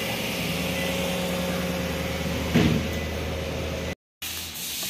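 Land Cruiser's V6 gasoline engine idling steadily just after a start; this engine is being checked for low power and hard starting. There is a single brief knock about two and a half seconds in, and the sound cuts off abruptly just after four seconds.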